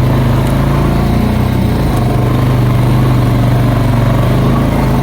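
ATV engine running steadily while the four-wheeler is under way, its note dipping slightly about a second and a half in.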